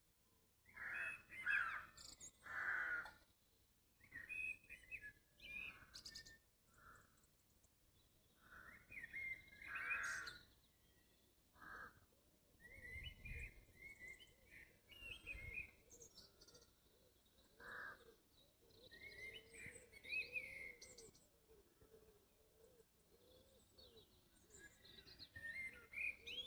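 Dawn chorus: several songbirds singing and calling in short, overlapping chirping and warbling phrases with brief pauses between them.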